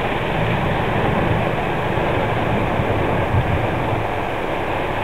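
Storm wind rushing steadily and buffeting the microphone, with an uneven low rumble under the hiss.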